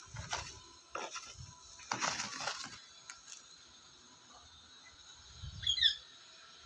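Rice grains rustling and scattering in a few short dry bursts as a parrot works in them, with a brief high chirp near the end.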